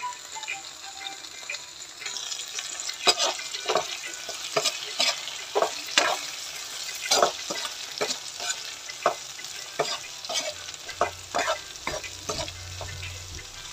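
Siling labuyo chilies and garlic frying in hot oil in a pan, with a steady sizzle that grows louder about two seconds in. A utensil knocks and scrapes against the pan about twice a second as the chilies are stirred.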